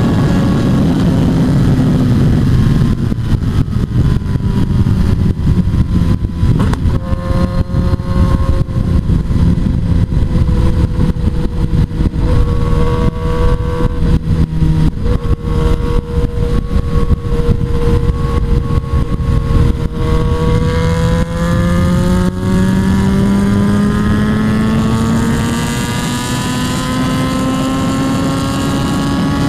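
Motorcycle engine running under way with heavy wind rumble. The engine note falls over the first dozen seconds, holds low for a while, then rises steadily through the second half as the bike accelerates.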